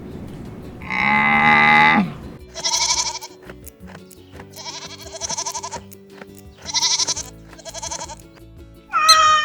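Goat bleating: four short, quavering bleats from about two and a half seconds in, after a longer, lower call about a second in, over background music with steady held tones.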